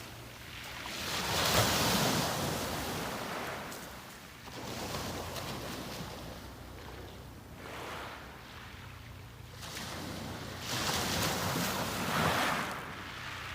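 Sea waves breaking and washing up the beach, swelling and fading every few seconds, with the biggest surges about a second in and again near the end.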